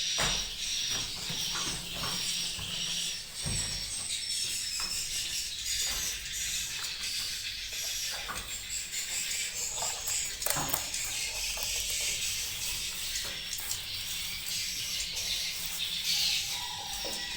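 Dense, high-pitched twittering and chirping of many swiftlets in a swiftlet house, with a few short knocks.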